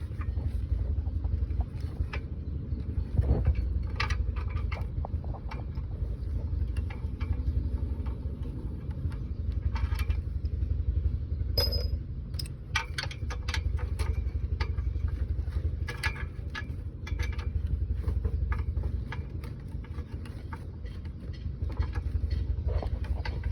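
Metal tools clinking and knocking in irregular clusters over a low steady rumble.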